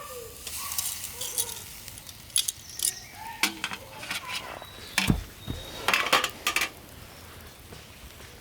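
Clinking and clattering of cooking gear being handled, a string of sharp metal-and-glass clicks with a dull low thump about five seconds in.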